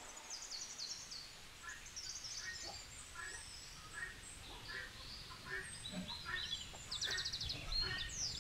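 Faint outdoor birdsong: small birds chirping with thin high notes and short trills, and one call repeated about twice a second.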